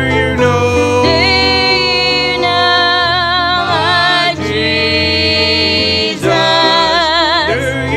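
A singer holding long notes with vibrato, accompanied by instruments with a steady bass line: gospel-style church music.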